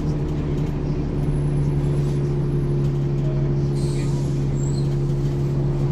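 Ikarus 435 articulated bus's diesel engine running at a steady speed, an even drone that holds one pitch throughout.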